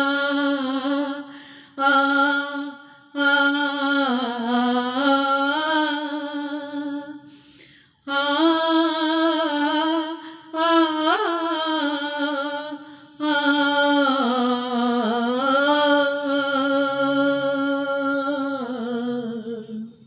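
A woman singing a ghazal's closing alaap on a long 'aa' vowel: long held, wavering notes in several phrases with short breaks between them.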